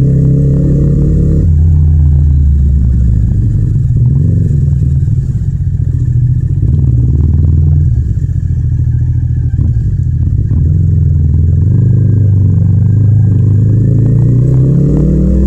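Yamaha MT-07's 689 cc parallel-twin engine running under load while ridden. It climbs in pitch in the opening second and a half, drops suddenly as it changes gear, rises and falls through the middle, then climbs again near the end.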